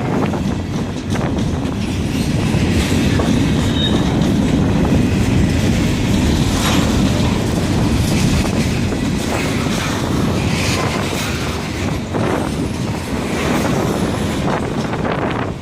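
A train rolling past close by: a steady rumble of steel wheels on rail, with clicking over rail joints and a few brief high wheel squeals.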